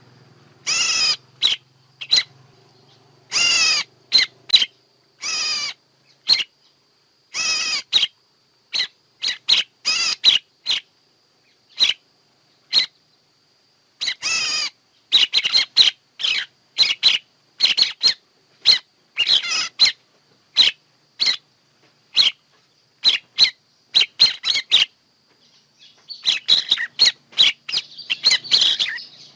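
Bird calls of the kind used as a trapping lure: repeated short, harsh calls and quick chips in irregular bursts, over a faint steady high tone. The calls grow denser and overlap near the end.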